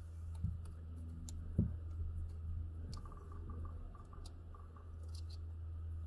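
Small clicks and taps of hands working a fuel filter and its hose clamp off a rubber fuel line, with a quick run of light ticks about three seconds in, over a steady low hum.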